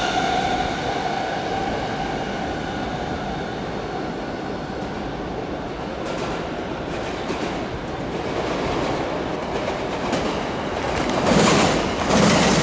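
Sotetsu New 7000 series electric train running along the track. A high whining tone fades out over the first two seconds, then the running noise of the cars on the rails grows, loudest in two rushes near the end as the train passes close.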